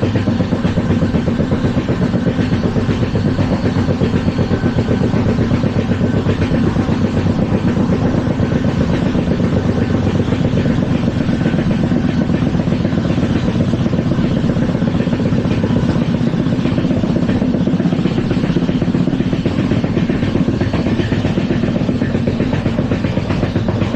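LHB passenger coach running at speed on the track: a loud, steady rumble of wheels on rails with a fast, continuous rattle.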